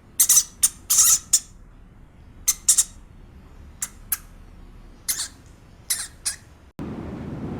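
Short, high-pitched animal calls in quick groups of two to four, about a dozen in all.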